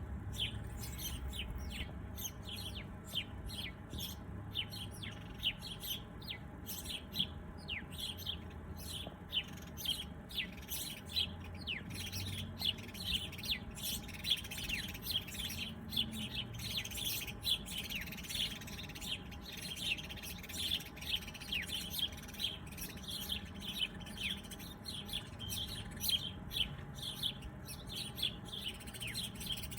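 Many small songbirds chirping and twittering continuously, a dense run of short, quick high calls, some sweeping down in pitch, over a steady low background hum.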